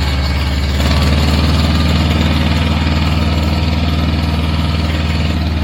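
Compact diesel tractor engine running steadily under load while pulling up a hill, getting a little louder about a second in.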